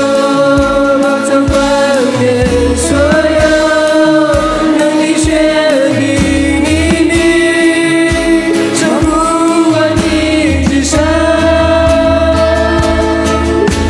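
Christian worship song: voices singing long held notes that glide between pitches, over a full band accompaniment.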